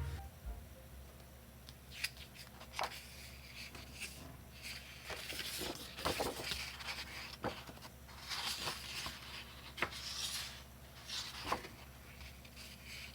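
Construction paper being cut and handled: scattered crisp snips and clicks with short papery rustles, irregularly spaced.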